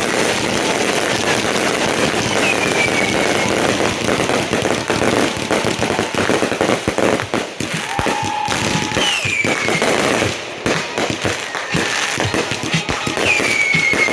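Fireworks finale: a dense, continuous barrage of crackling and popping bursts in quick succession, thinning into separate sharp bangs after about ten seconds.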